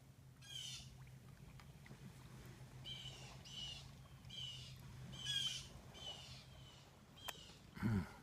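A bird calling over and over, short high calls about once a second, with a brief louder low sound near the end.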